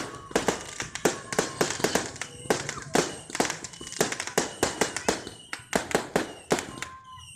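Fireworks and firecrackers going off in a rapid, irregular barrage of sharp bangs, several a second.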